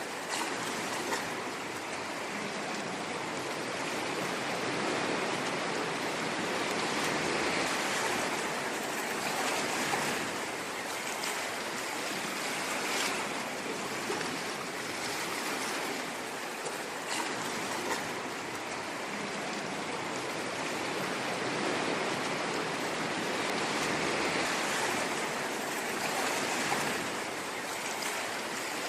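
Ocean waves washing ashore: a steady rushing hiss of surf that swells and eases slowly, with a few brief crackles of breaking foam.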